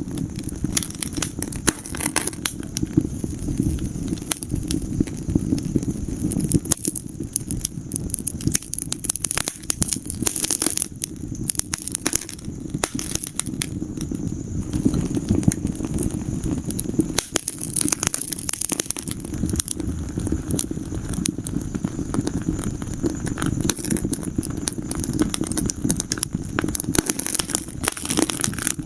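Wood fire burning in a fireplace: continuous irregular crackling with small sharp pops and snaps over a steady low rumble.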